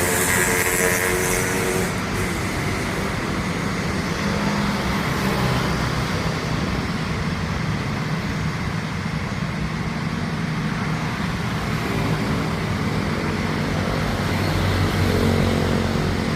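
Steady engine roar with a high hiss that fades out about two seconds in.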